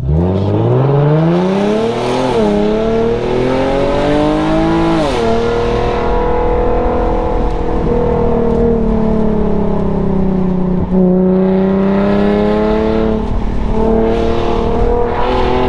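Infiniti G37x's V6 with its muffler and resonator deleted, accelerating hard: the exhaust note climbs and drops at an upshift twice in the first five seconds, then holds steady at cruising revs.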